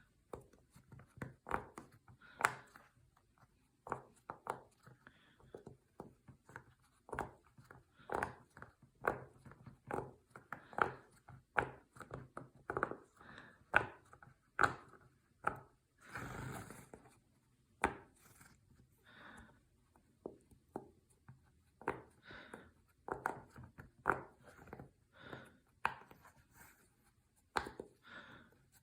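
Silicone pop-it fidget toy bubbles being pressed through, an irregular run of short soft pops, one to three a second, with a brief rustle of handling about halfway through.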